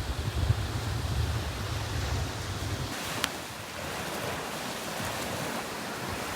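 Ocean surf washing on a beach, a steady hiss of breaking waves. Wind buffets the microphone with a low rumble for the first three seconds, then stops suddenly, and a single faint click follows just after.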